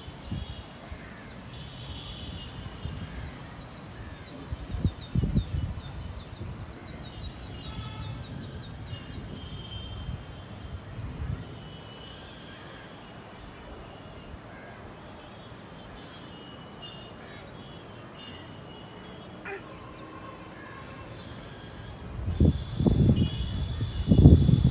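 Outdoor ambience of birds calling, short repeated chirps and trills throughout, with bursts of low rumble near the start, about five seconds in, and louder near the end.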